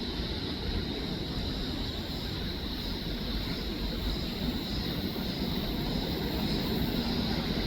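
Steady rumbling background noise with a faint high hiss above it, unchanging throughout.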